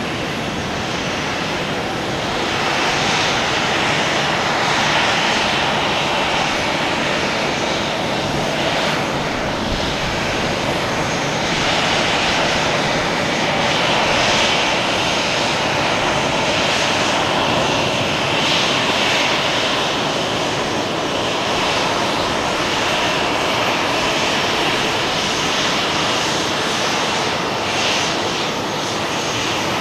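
Jet airliner engines running, a steady loud rushing noise that swells about two seconds in and then holds.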